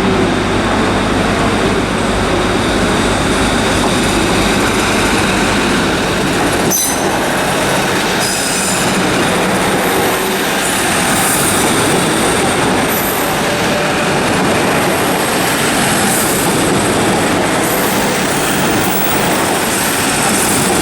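Three coupled Class 156 diesel multiple units departing under power, their underfloor diesel engines running, with rail noise and intermittent high-pitched wheel squeal as the cars pass. There is a single sharp clunk about seven seconds in.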